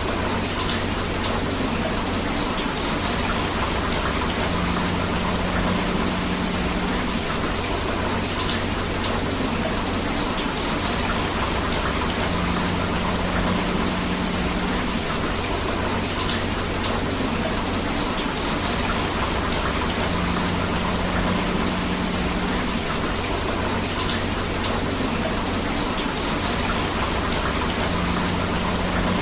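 Steady rain together with rushing river water: a continuous, even wash of water noise, with a faint low hum that comes and goes about every eight seconds.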